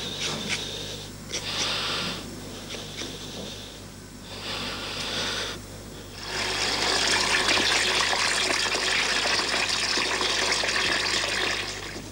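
Water pouring, in short spells at first, then a steady pour lasting about five seconds.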